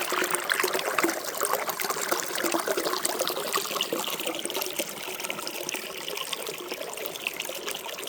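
Water trickling and lapping steadily in a hot-spring soaking pool, a little louder in the first few seconds.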